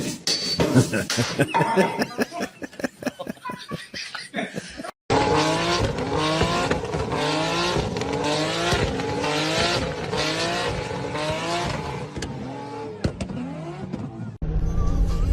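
A rapid clatter of knocks and rattles, then a motor vehicle's engine revving in repeated rising and falling sweeps, and near the end a loud low steady rumble.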